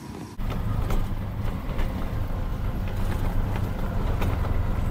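A motor vehicle running on the road: a steady low engine and road rumble with faint scattered clicks.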